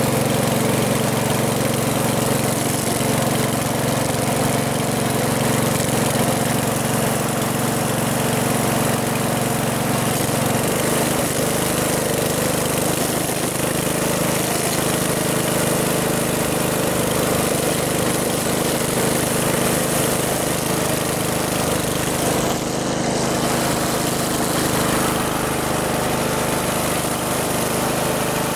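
1969 Chevy Malibu's engine running steadily as the car moves over packed snow, with a steady hiss under it. The engine note changes about ten seconds in and then holds steady again.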